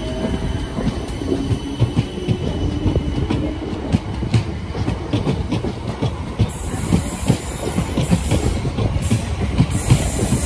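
South Western Railway Class 455 electric multiple unit rolling past on the track: a steady low rumble of wheels and bogies, with frequent sharp clicks as the wheels run over the rail joints.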